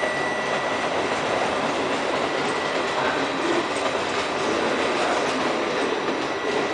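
Train moving on the station tracks: a steady rumble of wheels on rails with a thin, steady high-pitched whine over it.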